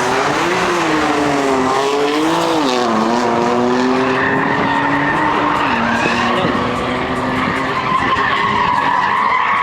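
A drifting car's engine revving hard, its pitch rising and falling with the throttle, while its tyres skid and screech through the second half.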